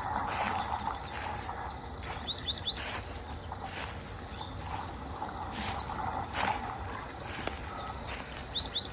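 Insects chirping, with a short high note repeating about once a second, and brief high bird chirps in small groups now and then.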